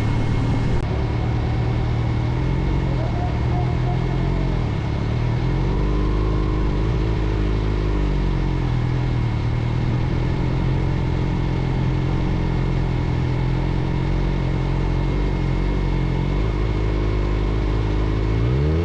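Motorcycle engine running at a steady cruise under wind and road noise, its pitch wavering slightly with the throttle. Near the end the engine revs up in a quick rising sweep as the bike accelerates.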